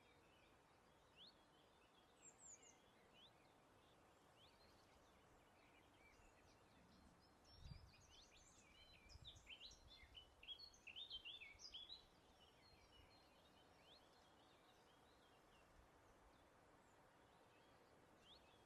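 Faint birdsong: scattered short chirps and rising notes, thickening into a busier stretch of song from about 8 to 12 seconds in, over a steady low hiss of breeze. A brief low rumble comes just before the busier stretch.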